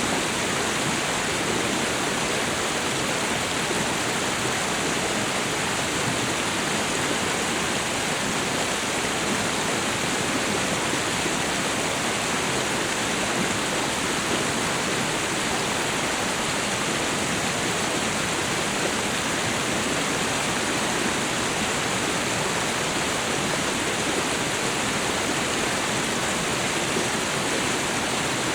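Steady rush of a waterfall and river, an even wash of falling and flowing water with no breaks or changes.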